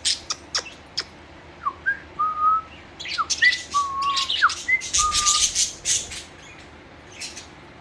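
Pet budgerigars chirping and warbling: short whistled notes mixed with quick scratchy chatter, busiest between about three and six seconds in and dying down near the end.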